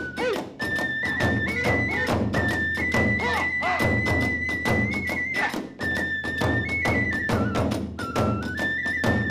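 Hiroshima kagura ensemble playing: a bamboo flute holds and steps between high notes over fast, steady drum strokes and clashing hand cymbals.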